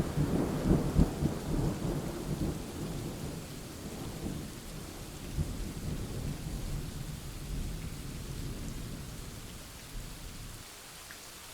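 Thunder rumbling, with crackling low rolls in the first few seconds that slowly die away to a faint rumble.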